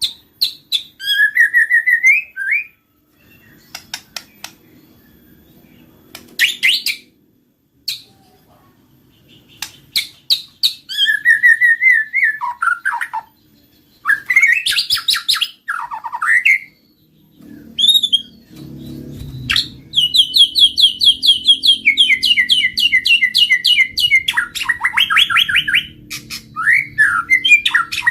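White-rumped shama singing: varied whistled phrases that glide up and down, broken by sharp clicks, turning about two-thirds of the way through into a long, nearly unbroken run of fast repeated notes.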